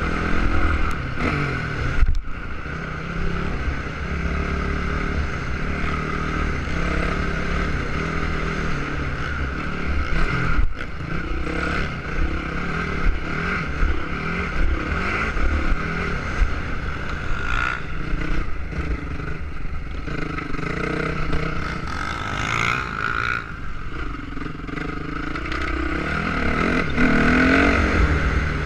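Motocross bike engines running on the track, their pitch rising and falling as the riders work the throttle, with a rising rev near the end.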